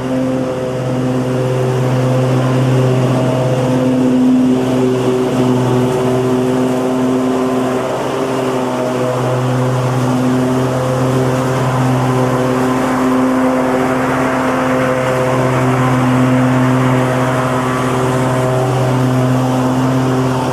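Lawn mower engine running at a steady speed: an even, loud hum that wavers only slightly in pitch.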